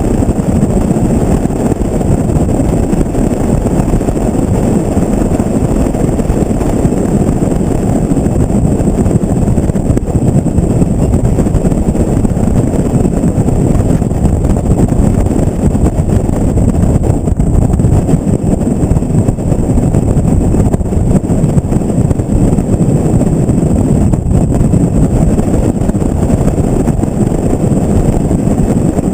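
Highway-speed wind buffeting a camera microphone in the open bed of a moving pickup truck, mixed with the truck's road noise: a loud, steady low rumble.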